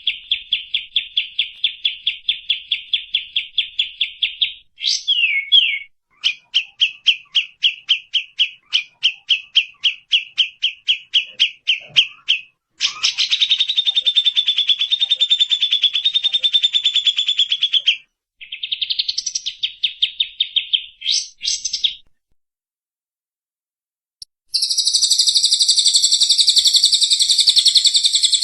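Songbird calls from a masteran tutor recording that mixes tengkek buto, cililin and kapas tembak. First comes a fast run of rapid repeated notes, then slower repeated notes at about four a second and a steady rattling trill. After a short burst there is a pause of about two seconds, and near the end a higher, shrill chatter.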